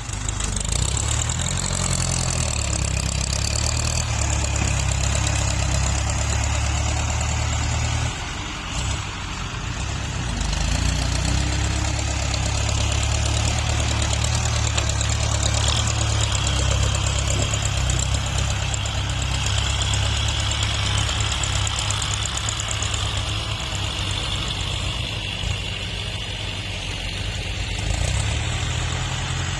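Diesel farm tractor engines running steadily as they grade and level soil. The engine note drops briefly about eight seconds in, then picks back up.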